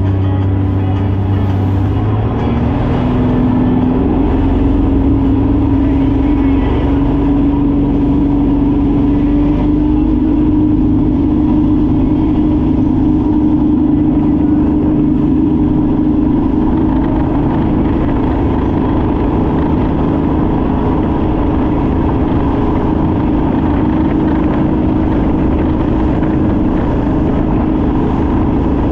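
Ride boat's engine running hard and steadily, its pitch rising a couple of seconds in as it picks up speed and then holding, over a loud rush of noise.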